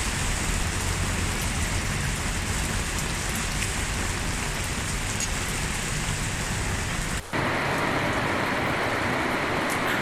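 Steady rain falling, an even hiss of drops on surfaces. About seven seconds in it briefly dips out and comes back hissier and with less low rumble.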